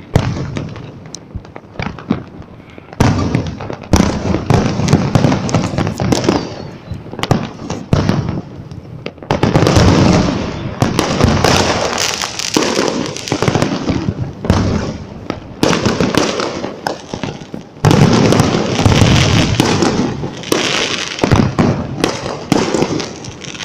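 Aerial fireworks going off in dense, rapid volleys: a continuous mix of sharp cracks and booming bursts with rumbling echoes. The barrage swells to its heaviest about ten seconds in and again near the end.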